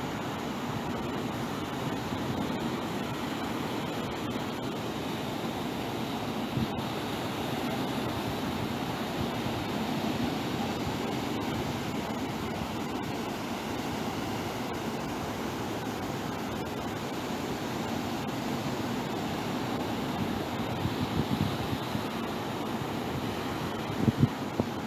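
Ocean surf washing steadily onto the beach, with a few brief low thumps near the end.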